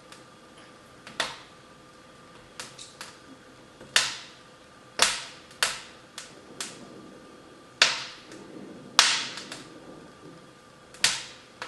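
Wood fire crackling in a fireplace: sharp, irregular pops and snaps about once a second, some loud, each dying away quickly.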